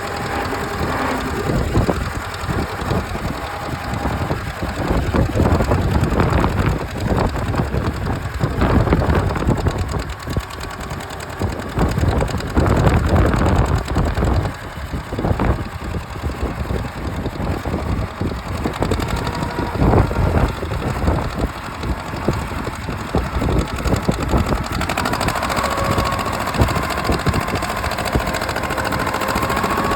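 Massey tractor engine running, its level rising and falling, with a steady whine joining in near the end.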